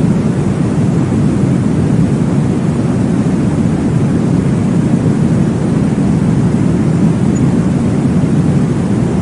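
Steady, low whooshing noise from a baby sleep-aid track meant to mimic the sound inside the womb, heavy in the low range and even throughout, with no distinct beats.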